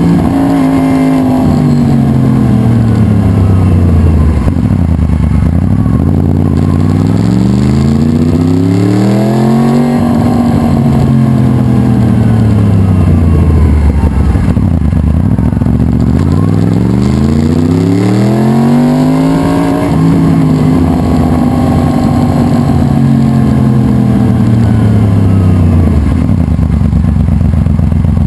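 Yamaha R1 superbike engine running loud, its revs rising and falling in long smooth sweeps: falling, climbing for about five seconds, falling, climbing again, then falling away slowly.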